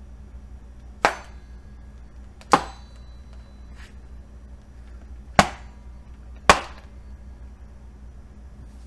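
Four sharp impacts at uneven spacing, each dying away quickly, with a much fainter fifth one between the second and third.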